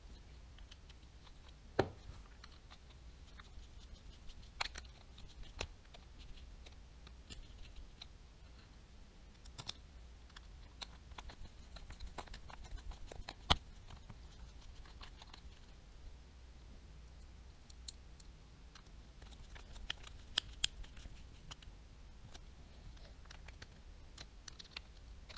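Small parts of a Daiwa Tatula baitcasting reel and hand tools being handled on a work surface: scattered light clicks and taps, with two sharper knocks about 2 and 13 seconds in, over a faint low hum.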